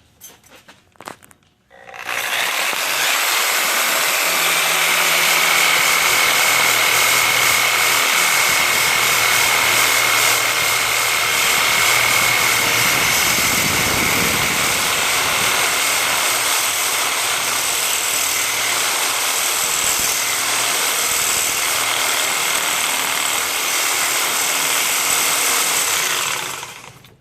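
Reciprocating saw (Sawzall) cutting through the steel walls of a seized, drilled-out lower ball joint in the steering knuckle, weakening them so the joint can be knocked out. It starts about two seconds in, runs steadily at full speed with a thin high whine, and stops shortly before the end.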